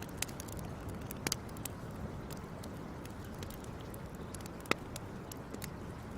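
Wood fire crackling: a steady low rush under scattered sharp pops, with a quick double pop about a second in and the loudest pop a little past three-quarters through.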